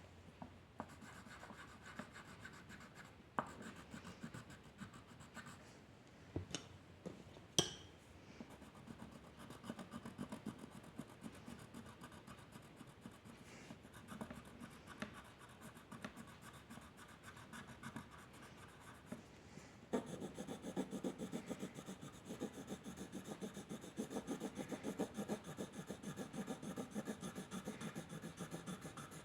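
A drawing tool scratching across paper in steady strokes, with a few sharp taps in the first several seconds. About two-thirds of the way in, the strokes turn quicker and louder, a rapid back-and-forth like shading or colouring in.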